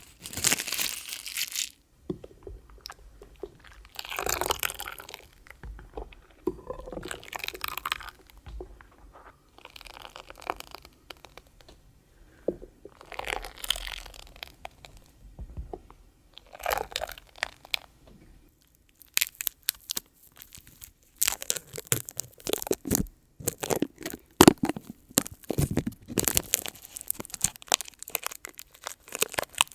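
Close-miked ASMR hand-washing sounds: hands rubbing and squishing lathered wash products in irregular crackly, crunchy bursts with short pauses. The crackles grow busier in the second half.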